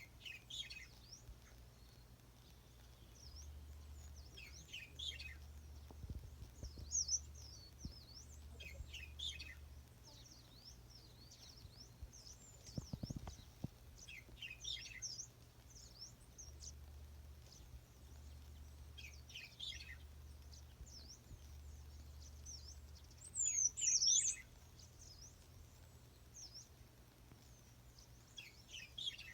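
Songbirds chirping and calling: short groups of high, quick chirps every few seconds, the loudest about twenty-four seconds in.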